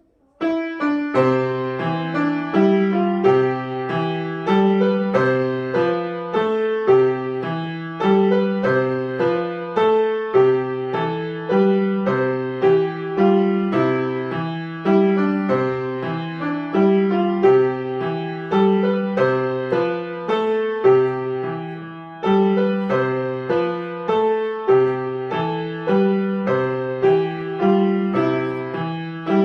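Solo piano playing a piece, beginning about half a second in, with evenly paced notes over a steady repeated pattern in the lower register.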